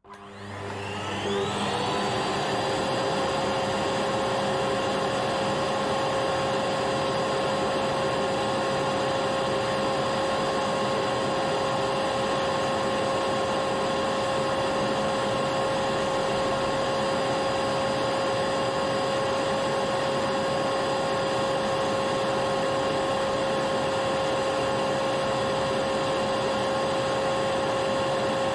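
Vacuum cleaner switched on, its motor spinning up with a rising whine over the first two seconds, then running steadily at a constant pitch.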